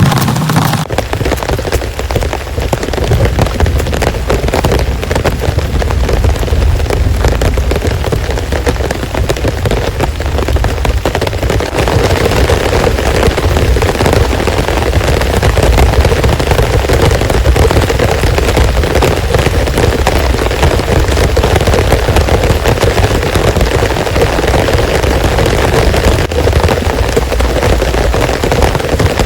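Heavy rain pouring down, loud and dense, with a continuous deep rumble underneath that grows a little louder about halfway through.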